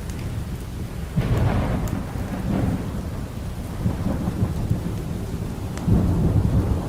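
Thunder rumbling over steady rain, swelling about a second in and again near the end, with a few crackles from a log fire.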